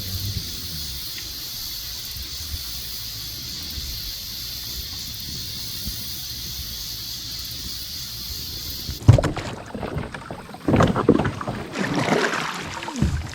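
Creek-side outdoor ambience from a kayak: a steady high hiss. Then, after an abrupt change about nine seconds in, irregular knocks and splashy sounds of the kayak and gear being handled.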